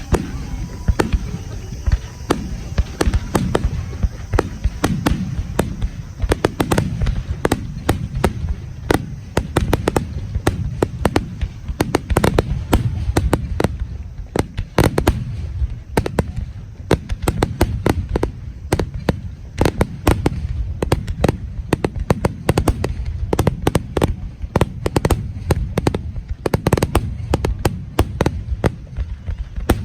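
Aerial fireworks shells bursting in a rapid barrage: sharp bangs several times a second over a continuous low rumble.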